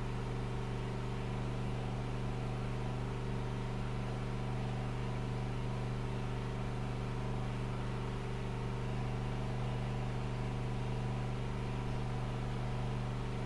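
A steady low machine hum, one even drone that does not change in pitch or level.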